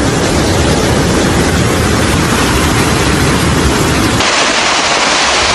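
Loud, steady rushing of floodwater with a heavy low rumble; about four seconds in it cuts to a higher, hissier rush with little rumble.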